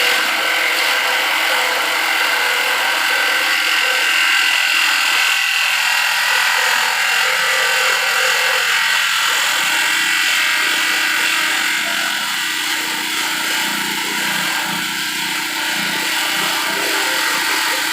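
Grass chopper machine running steadily, a loud, even mechanical noise with a high whine.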